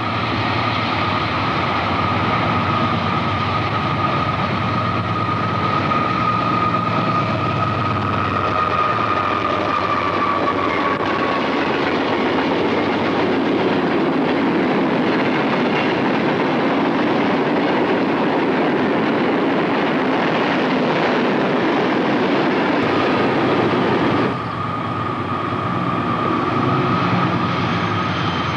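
A train going by: a steady heavy rumble and rattle of rail cars on the track, with a high whine over the first ten seconds or so that slowly drops in pitch. About 24 seconds in the sound cuts off abruptly to a quieter, steady diesel locomotive engine running with a similar whine.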